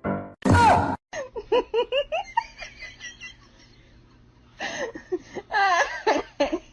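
A person laughing in strings of short, rising giggles, in two bouts with a quieter pause between them. A short, loud cry comes just before the first bout.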